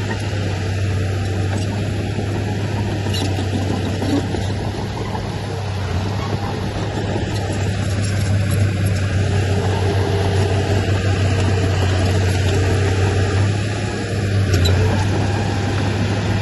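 Diesel engine of heavy earthmoving machinery running steadily, a low drone that grows a little louder about halfway through and dips briefly near the end.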